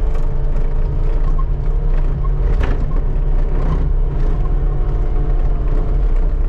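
Skid steer engine running steadily under load while its bucket scrapes snow off pavement, with scattered knocks and one sharper clank about two and a half seconds in.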